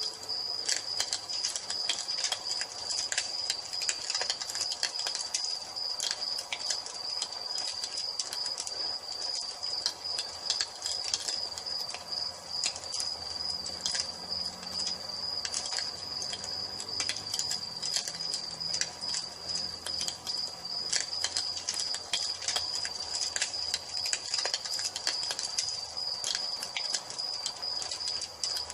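Wood fire crackling with frequent sharp snaps and pops, over a continuous high-pitched cricket trill.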